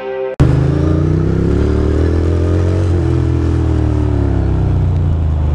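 Ducati Monster 620's air-cooled L-twin engine running on the move, with road and wind noise. It starts suddenly a fraction of a second in, right after music cuts off, and its note rises a little and then eases off around three seconds in.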